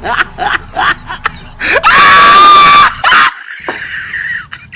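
A loud, high scream held steady for about a second, preceded by a string of short rising cries.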